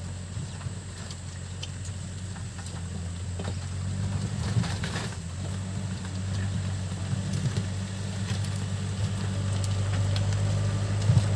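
Backhoe loader's diesel engine running steadily and growing gradually louder, with scattered clicks and knocks from the work.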